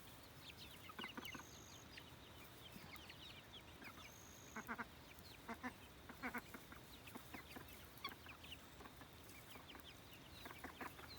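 Faint clucking and many short, high, falling peeps from a small flock of chickens, scattered throughout.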